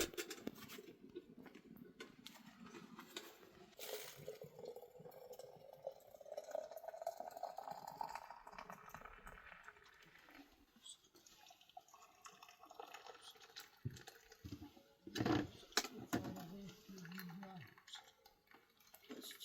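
Liquid pouring into a container, faint, with a tone that rises slowly over about five seconds as the vessel fills. There are a few light taps, and a short sound like a voice near the end.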